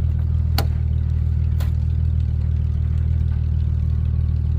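A vehicle engine idling steadily, with two sharp clicks about half a second and a second and a half in.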